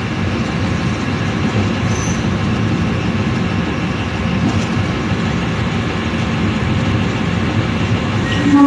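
Train running along the track, heard from the front of the train: a steady running noise of engine and wheels. Near the end the train's horn starts to sound, a loud held tone.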